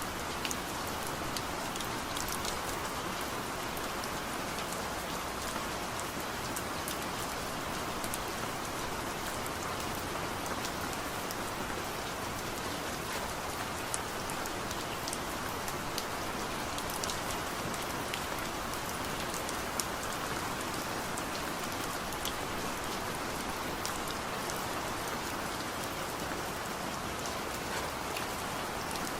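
Heavy rain falling steadily, a dense even hiss with many sharp individual drop impacts scattered through it.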